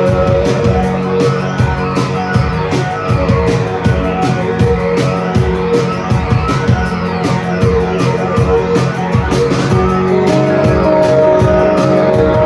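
Live rock band playing: electric guitars over drums, with a steady, fast beat.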